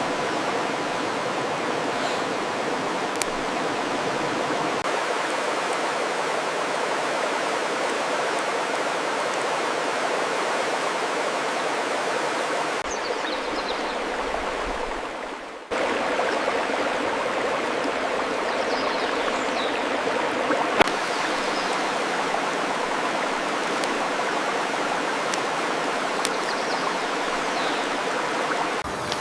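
Steady rush of running water from a stream. It fades and dips briefly about halfway through, then cuts back in sharply.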